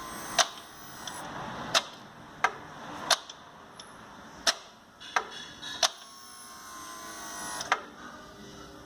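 Volkswagen Gol G5's i-Motion automated gearbox actuator shifting through the gears by itself during a scanner-commanded gear-position learning: sharp clicks at irregular intervals, about eight in all, over a faint steady whir.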